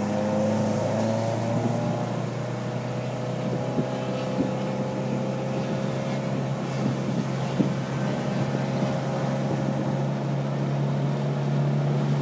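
Turbocharged 2.5-litre flat-four boxer engine of a 2008 Subaru Impreza WRX STI, heard from inside the car, running at a fairly steady pitch under way on track, over a haze of road and wind noise.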